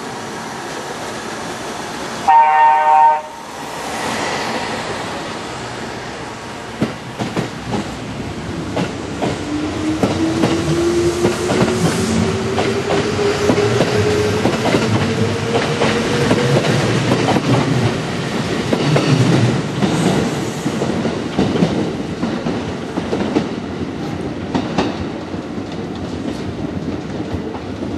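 Kintetsu 20000 series 'Raku' electric train sounding a short horn blast about two seconds in, then pulling away: its motors whine, rising in pitch as it gathers speed, with the wheels clacking over the rail joints and points.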